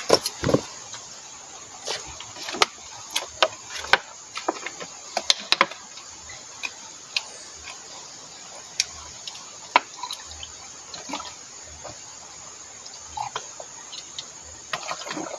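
A person eating with their mouth close to the microphone: irregular wet smacks and clicks of chewing and lip-smacking, a mukbang meal of rice and fish.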